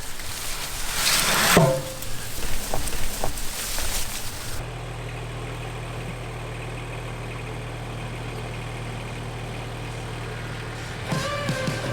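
Tractor engine running at a steady low hum, which begins abruptly about four and a half seconds in. Before it come a few seconds of noisy outdoor sound with a loud rush about a second in, and music begins near the end.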